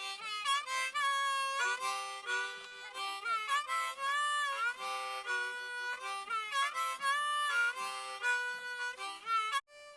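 Harmonica music: a quick tune played as chords and runs of several notes at once, breaking off abruptly near the end.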